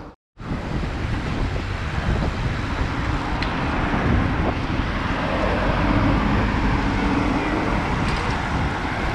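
Wind rumbling on a helmet- or bike-mounted action-camera microphone while riding a bicycle through city traffic, with the steady noise of road traffic around it. The sound drops out for a split second right at the start, and a vehicle engine hum rises in the middle.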